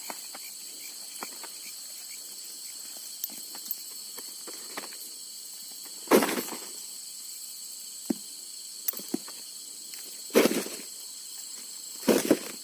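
Night insects, crickets, trilling steadily at two constant high pitches. Three louder knocks or splashes stand out, about six seconds in, about ten seconds in, and near the end, with a few fainter clicks between them.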